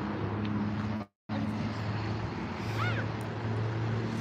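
Steady low engine-like hum over outdoor background noise, cutting out completely for a moment about a second in. A short high chirp comes near three seconds in.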